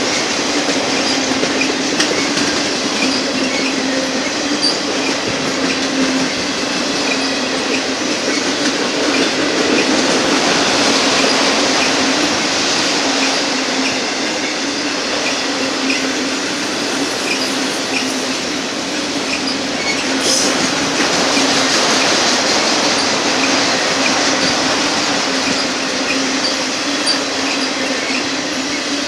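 Union Pacific auto rack freight train rolling past, with the steady rolling noise and clatter of its wheels on the rails and a sharp click about twenty seconds in.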